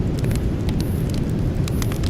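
Campfire burning: a steady low rumble under scattered sharp crackles and pops from the burning wood, several bunched together near the end.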